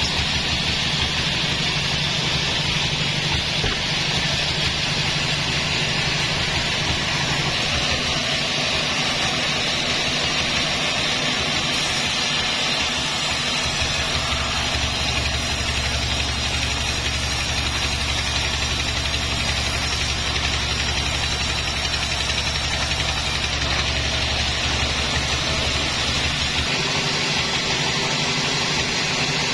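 Sawmill machinery running steadily: an engine-driven saw and its motor making a continuous loud mechanical noise with a broad hiss, holding level throughout.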